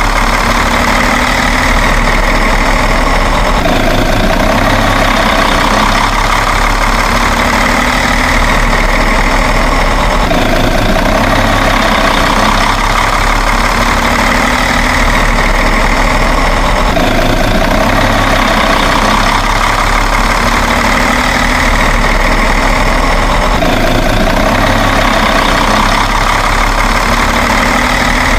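An engine idling steadily, the same stretch repeating about every six and a half seconds like a looped recording.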